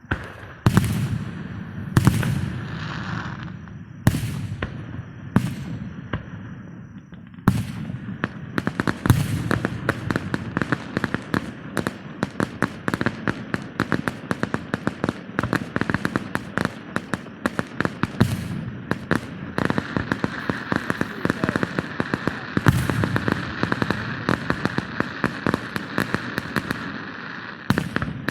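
Fireworks going off: a handful of separate sharp bangs, each trailing off in crackle, then from about seven seconds in a dense, continuous crackle of rapid pops. A steady hissing fizz joins in over the last third.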